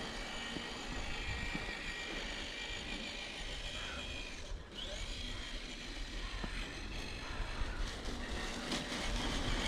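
Small electric motor and gearbox of a radio-controlled truck whirring with a faint high whine as it drives. The sound cuts out briefly about halfway through and then starts again.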